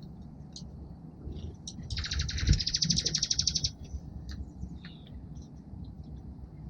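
A small songbird at a backyard feeder gives one rapid, even trill lasting under two seconds, about two seconds in, with short high chirps from other birds before and after it.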